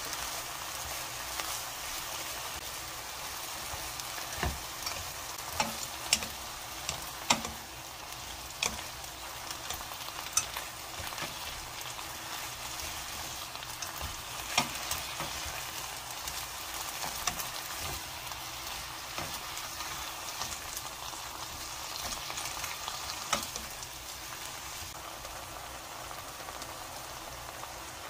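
Pork and onion strips sizzling as they are stir-fried in a nonstick wok, with wooden chopsticks and a wooden spatula knocking against the pan now and then.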